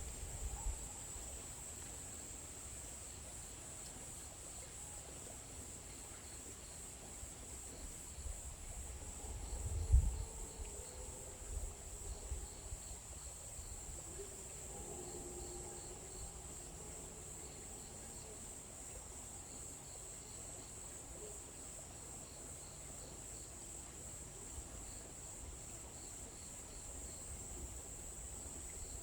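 Insects trilling in a steady high-pitched chorus, like crickets, in forest ambience. A brief low rumble comes about ten seconds in.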